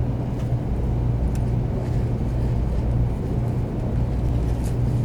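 Tokaido Shinkansen 300 series train running, heard inside the passenger cabin: a steady low rumble with a constant low hum and a few faint clicks.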